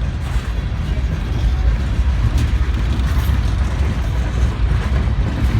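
Long freight train rolling past with a steady low rumble and an occasional sharp clank from the cars.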